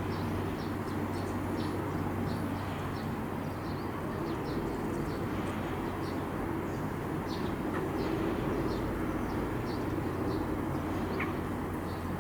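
Wild Atlantic canaries giving short, faint high chips, a few each second, over a steady low rumble.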